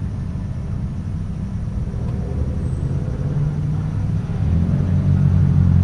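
Car engine and exhaust running at low revs, a deep steady rumble that grows louder about four and a half seconds in.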